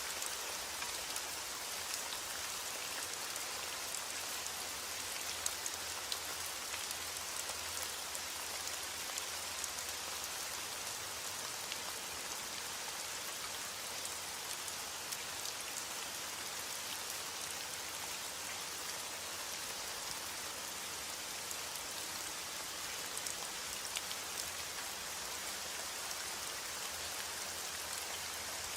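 Steady heavy rain falling, an even hiss with scattered sharper drop impacts.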